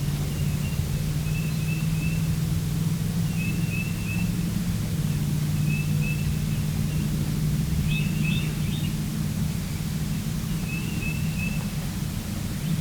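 A small songbird singing short phrases of three or four quick, high chirping notes, repeated every couple of seconds over a steady low hum.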